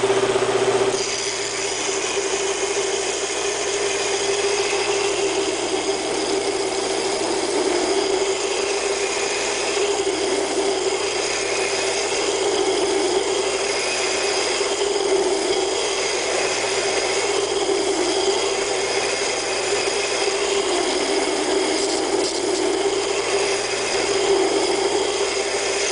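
A double-wheel hollow belt grinder running a 50-grit belt on 6-inch contact wheels, rough-grinding the hollow bevels of an O1 tool steel blade before heat treat. A steady hum from the motor and belt, with the grinding sound of steel on the belt coming in about a second in, then swelling and fading in even passes every two to three seconds.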